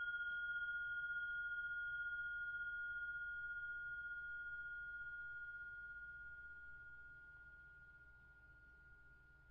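Steady, pure electronic tone with a fainter higher tone above it, slowly fading away.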